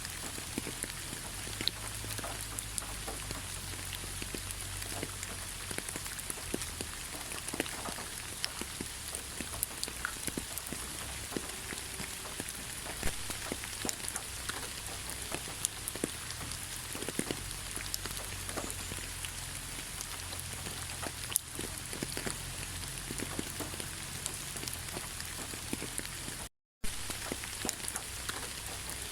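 Steady rain in a forest, with many separate drops tapping close by. The sound cuts out completely for a fraction of a second near the end.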